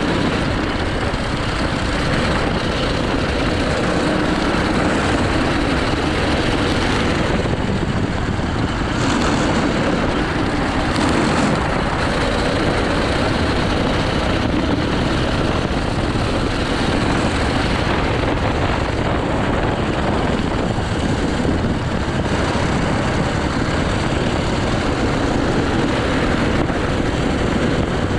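80cc go-kart engine running hard through a lap, its note rising and falling with the throttle.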